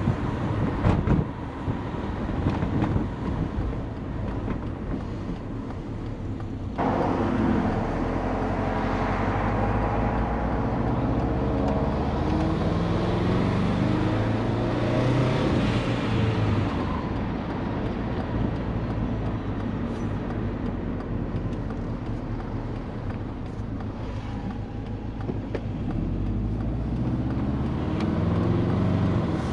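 Turbocharged Subaru Forester's EJ20 flat-four engine driving on the road. For the first several seconds there is a rough rushing wind noise. About seven seconds in it changes suddenly to a clear engine note, with the revs rising and falling as the car drives on.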